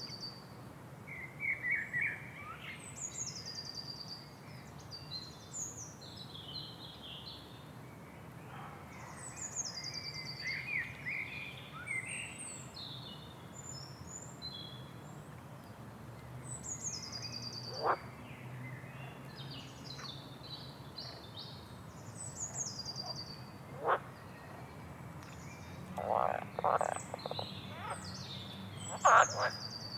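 Several songbirds singing, with repeated high, falling trilled phrases and chirps over a low steady background hum. Frogs croak once or twice in the middle and more often near the end.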